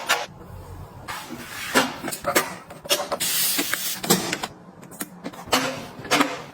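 Household items being handled and set down: a run of sharp clicks and knocks, with a stretch of rustling or sliding in the middle.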